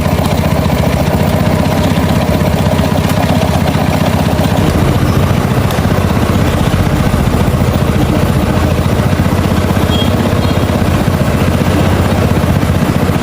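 Small motorcycle engine idling steadily with an even, fine pulse.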